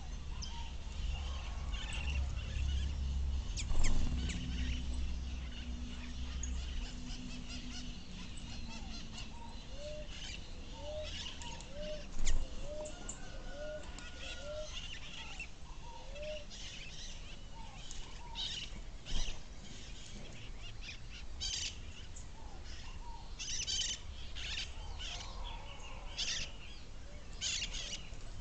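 Wild birds chirping and calling, with many short high chirps and, in the middle, a run of lower rising-and-falling notes about two a second. A few loud, dull knocks stand out, one near the start and two more later.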